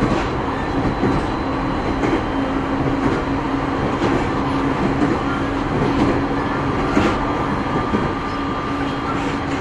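Running noise heard inside a JR 209 series electric multiple unit's motor car at speed: a continuous rumble of wheels on rail with a steady hum and a few scattered clicks from rail joints.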